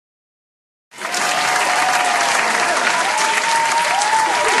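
About a second in, applause starts suddenly, with cheering voices whooping over it.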